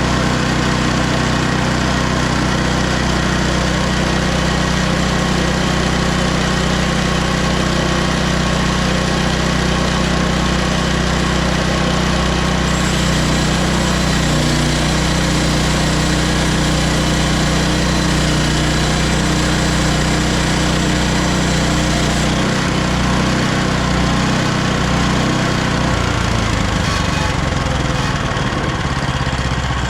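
Hudson HFE30 bandsaw sawmill's engine running steadily, with a change in engine speed about 26 seconds in.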